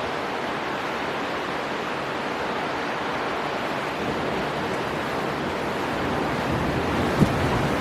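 Storm wind and surf: a steady rush of strong wind and breaking waves, growing slightly louder toward the end, with a short gust buffeting the microphone about seven seconds in.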